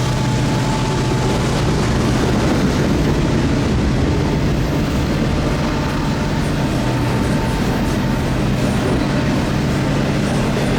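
Diesel-hauled freight train passing close by: the steady rush and rumble of double-stack intermodal cars rolling over the rails, with a low diesel engine hum underneath.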